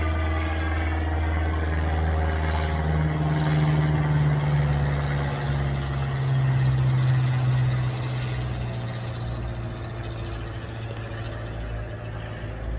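Airplane passing overhead: a steady low engine drone whose pitch slides slowly downward, swelling a few seconds in and then fading.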